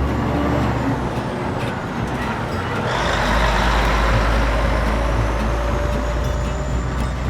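Truck sound effect: an engine rumbling, with a loud air hiss, like air brakes, starting about three seconds in and holding.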